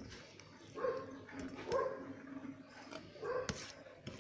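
A dog barking in short barks, three of them about a second apart.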